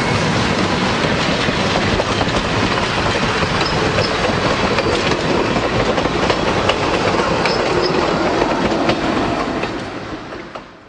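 Passenger train coaches rolling past close by, their wheels clacking over the rail joints. The sound fades after the last coach goes by and cuts off near the end.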